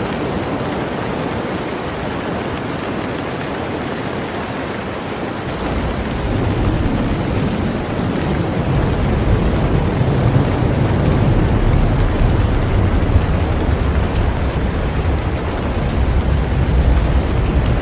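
Heavy rain falling on a boat, a dense steady hiss. About six seconds in, a deep low rumble joins the rain and carries on under it.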